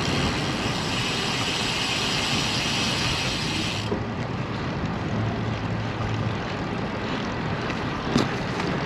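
Wind noise on the microphone and tyre rumble from a road bicycle riding along, with a steady high buzz from the rear hub freewheeling while coasting that stops abruptly about four seconds in as pedaling resumes.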